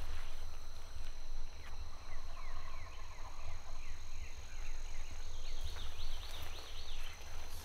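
A bird calling a long series of short down-slurred notes, about two a second, which climb higher in pitch and come faster near the end. Footsteps and camera handling make a low rumble underneath.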